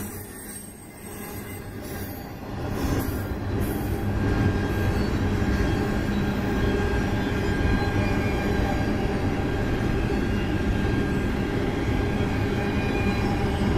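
Double-stack intermodal well cars rolling past on steel rails: a steady rumble of wheels with faint, thin squealing tones over it. It is quieter for the first couple of seconds, then grows louder and holds steady.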